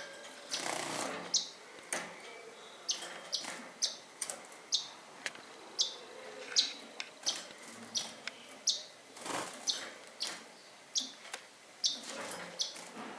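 Small pet birds chirping: short, high chirps repeated roughly once a second, with a few brief rustling bursts among them.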